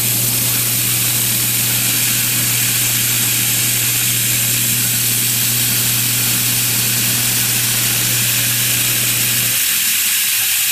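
Loud, steady hiss of a running motor or blower with a low hum beneath it. The hum drops away about a second before the end while the hiss carries on.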